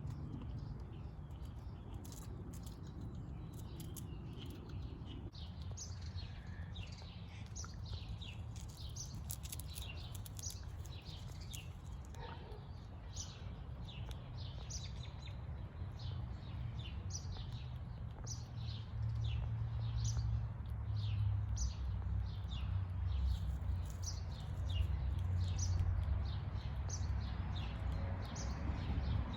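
Songbirds chirping: a long run of short, high, falling notes, about one or two a second, over a low outdoor rumble that grows louder past the middle.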